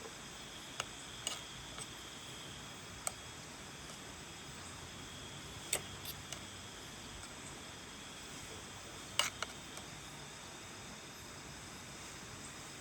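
Steady faint rain hiss with a few sharp, separate drop taps on the tent or tarp, the loudest about six and nine seconds in. A thin steady high hum, like insects, runs underneath.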